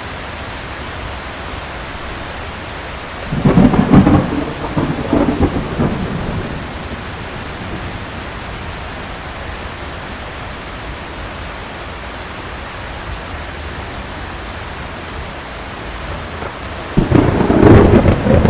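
Steady heavy rain with two loud rolls of thunder, one starting about three seconds in and fading over a few seconds, the other starting near the end.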